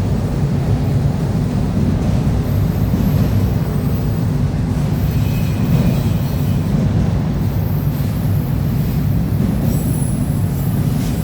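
CSX freight train's cars rolling steadily past with a continuous low rumble, and faint high-pitched wheel squeals now and then.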